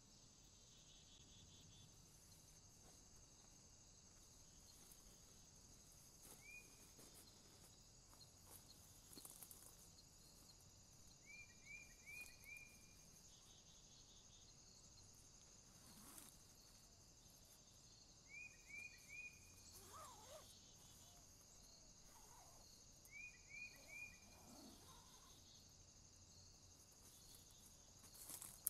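Faint night chorus of crickets and other insects, a steady high-pitched buzz. Every few seconds a small group of three or four quick chirps from an unseen animal cuts in.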